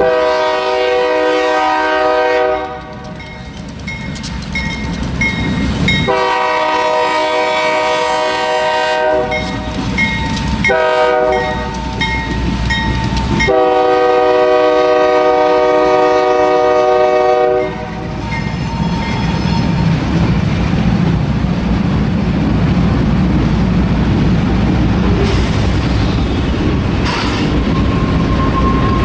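Diesel freight locomotive's air horn blowing the long, long, short, long grade-crossing signal, followed by the low rumble and clickety-clack of the freight train rolling past. A couple of brief wheel squeals come near the end.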